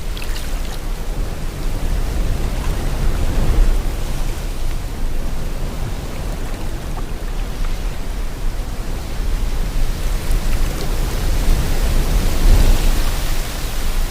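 Sea water and wind: a steady rushing noise over a deep rumble that swells and eases.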